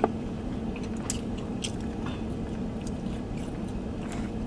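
A person chewing a mouthful of thin-crust pizza with the mouth closed: soft, scattered wet chewing clicks, not crunchy, as the crust isn't crispy. A steady low hum sits underneath.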